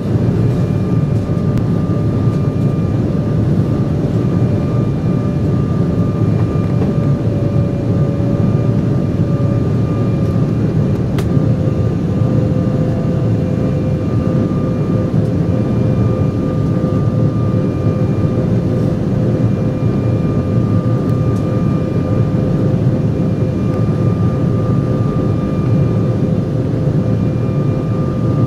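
Steady cabin noise of an Embraer 175 airliner in flight: the rush of its GE CF34 turbofan engines and airflow, with a steady engine whine that drops slightly in pitch about ten seconds in.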